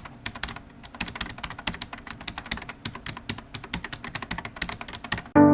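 Rapid, irregular clicking like typing on a keyboard, several clicks a second, which stops abruptly just as music begins at the very end.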